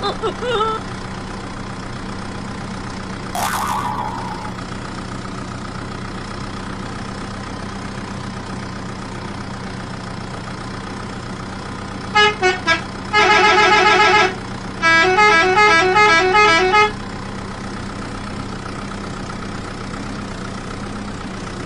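A steady low engine-like drone, with a brief whoosh a few seconds in. About twelve seconds in, a musical vehicle horn sounds: a few short beeps, a warbling blast, then a quick run of alternating notes.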